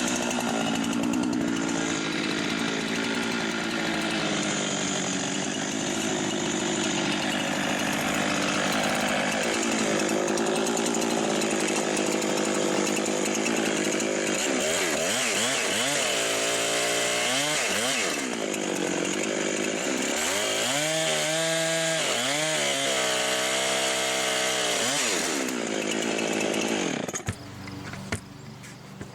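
Husqvarna 390XP two-stroke chainsaw running at high speed. About halfway through, its pitch starts swinging up and down again and again as the throttle is worked. The sound cuts off abruptly near the end.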